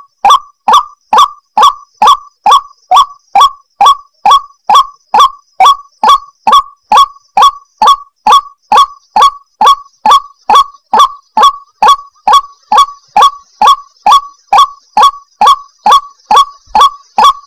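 White-breasted waterhen calling: a fast, even series of loud, harsh notes, about two and a half a second, each one short and dipping slightly in pitch.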